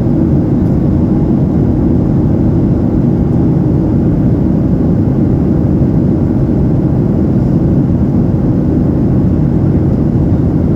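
Airliner cabin noise in flight: the steady low rush of the engines and airflow heard from inside the cabin, even and unchanging.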